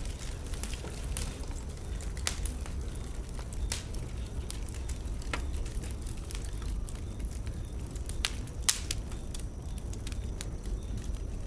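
Burning wood in a bonfire, crackling with irregular sharp pops over a low steady rumble. The loudest pop comes about three-quarters of the way through.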